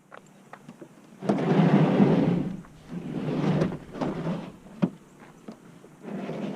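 Rustling and knocking from bait containers being handled: several rustling bursts of about a second each, the first and loudest about a second in, with a few sharp clicks in between.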